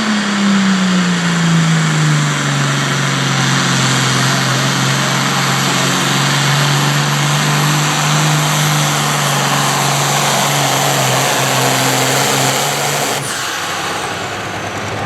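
A pulling vehicle's engine running hard under load. Its pitch sags over the first two seconds, then holds steady, and the engine drops off about two seconds before the end with a sharp snap.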